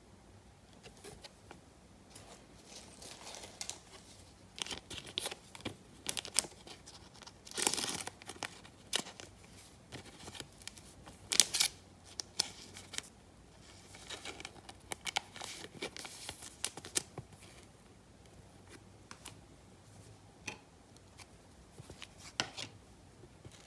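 Trading card packaging being opened and handled: irregular crinkling of wrappers, tearing and sharp clicks, loudest about eight and eleven seconds in.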